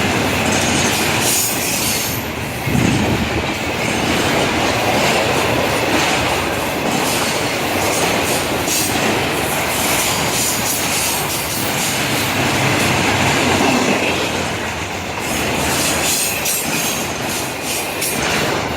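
Florida East Coast freight train's cars rolling past, a steady loud rumble of steel wheels on rail with repeated clacks.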